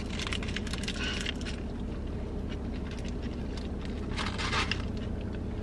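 Close-up chewing of a bite of chicken pita, with its paper wrapper crinkling during the bite and again about four seconds in as it is set down in a foam takeout container. A steady low hum runs underneath.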